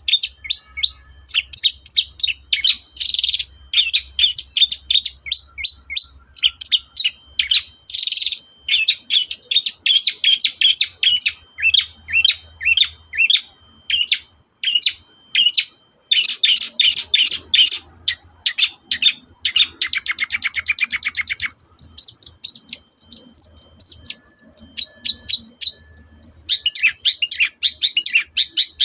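Long-tailed shrike (cendet) singing: a long, fast run of sharp, varied chirping notes, with a rapid even trill about two-thirds of the way through.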